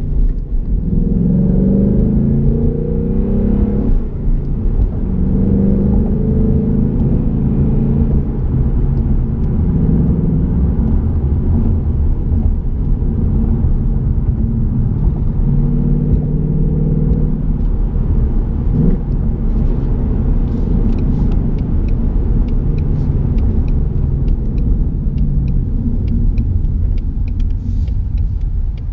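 2018 Ford Mustang GT's 5.0-litre V8 heard from inside the cabin while driving, its pitch rising and falling over the first ten seconds or so, then running steadily at a cruise. Faint regular ticking comes in over the last third.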